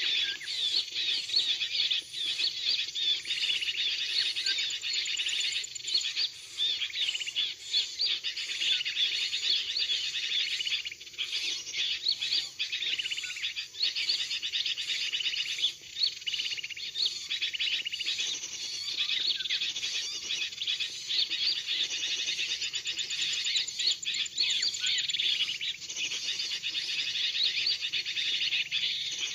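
Dense, unbroken chatter of many small birds: a bird-trapping lure recording of agitated bulbuls ("kutilang ribut") mixed with small-bird calls, played to draw birds in.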